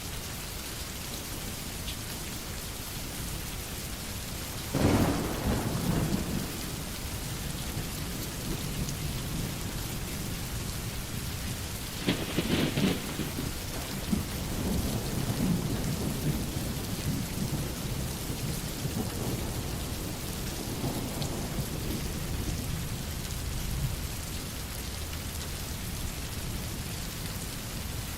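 Steady rain falling, with two sudden claps of thunder about five and twelve seconds in, each followed by a low rolling rumble, and fainter rumbles later on.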